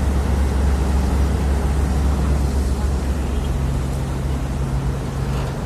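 Heavy diesel engine running steadily with a deep, low drone; a second steady, slightly higher tone joins about three and a half seconds in.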